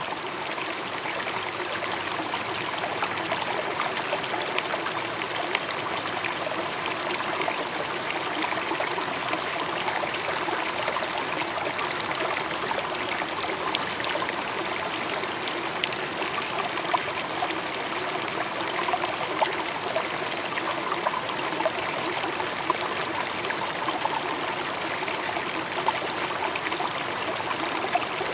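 Steady trickling, running water, unbroken throughout, with a few faint ticks.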